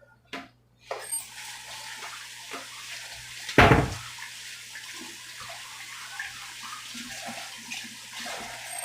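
Kitchen tap running steadily into a sink, with one short, louder splash or knock about three and a half seconds in; the water stops just before the end.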